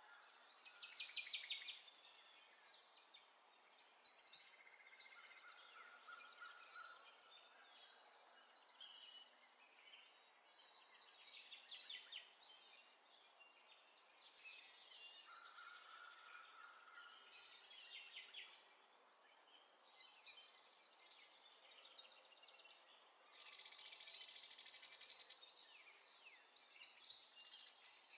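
Birds singing: a string of high chirps and rapid trills that come and go every second or two, over a faint steady hiss.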